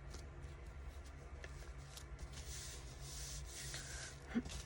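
Soft rubbing and rustling of paper being handled on a craft table, strongest about halfway through, over a low steady hum.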